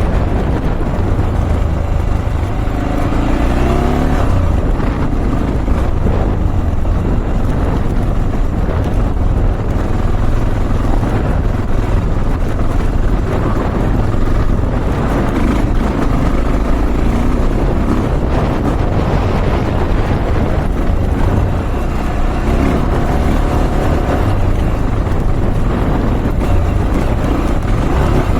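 Honda XR650L's single-cylinder four-stroke engine running as the motorcycle is ridden, its revs rising and falling several times.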